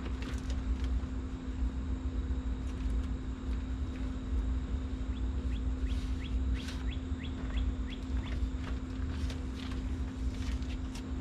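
Steady low hum with a constant tone throughout. In the middle, a run of short scratchy ticks, about three a second, as masking tape is pulled off the roll and laid on the car's body.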